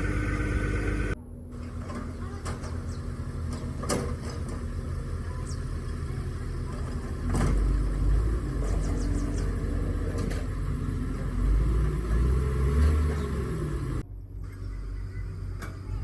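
A low vehicle engine rumble that swells twice, with a few sharp knocks. The sound changes abruptly about a second in and again near the end.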